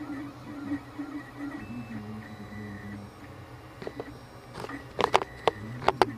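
3D printer's stepper motors running, whining in tones that shift in pitch as the print head moves. From about four seconds in, a series of sharp clicks, the loudest near the end.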